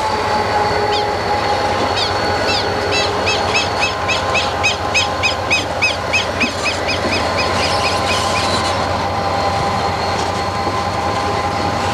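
Diesel locomotives of a freight train passing close by: a steady engine drone with held whining tones. From about two seconds in until past the eighth second, a run of quick, evenly spaced high squeaks comes in, about three a second.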